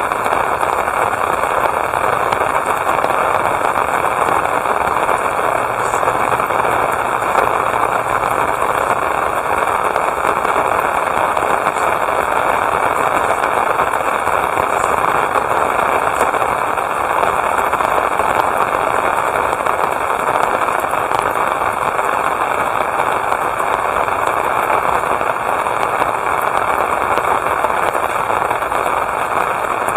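Rain falling steadily, a continuous even hiss that holds level throughout.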